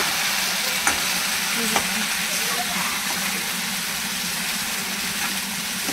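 Macaroni frying in hot oil with onions and tomatoes in a kadai, a steady sizzle, while a metal turner stirs and scrapes through it, clicking twice against the pan about one and two seconds in.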